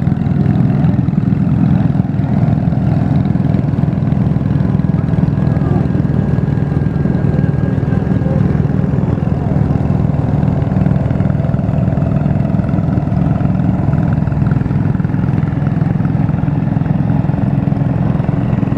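Garden tractor engine running steadily with an even, continuous hum.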